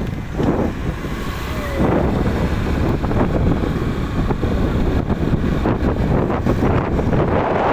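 Wind buffeting the microphone: a loud, uneven rumbling noise that grows a little stronger about two seconds in.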